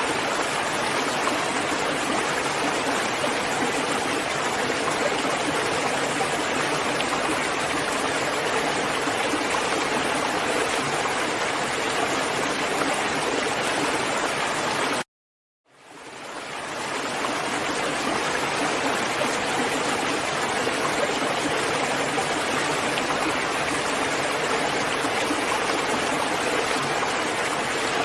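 Steady rain, an even dense hiss of falling water. About halfway through it cuts out to silence for about half a second, then fades back in over a second or two.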